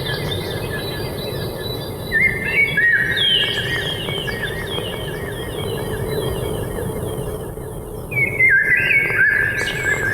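Birds chirping in quick runs of short repeated notes, with two louder flurries about two seconds in and again about eight seconds in, over a steady low background hum.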